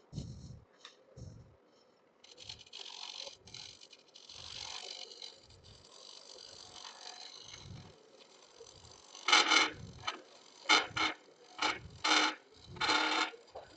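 Turning tool scraping wood inside a bird's mouth vase spinning on a lathe: a soft hissing cut for several seconds, then a run of short, louder cuts in the last few seconds.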